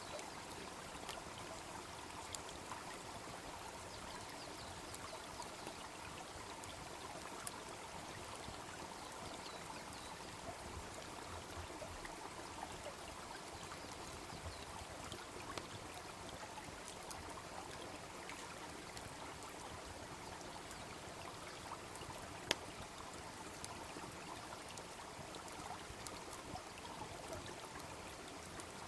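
Wood bonfire crackling with scattered sharp pops over the steady babbling of a small brook; one louder pop comes about three-quarters of the way through.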